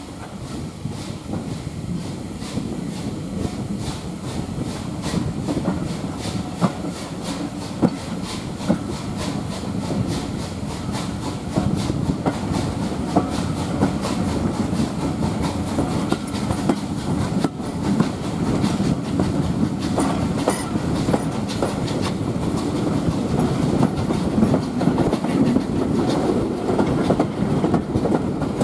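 Heritage passenger train hauled by steam locomotive SR 34070 Manston running along the line: a steady low rumble with the wheels clicking over the rail joints, growing gradually louder.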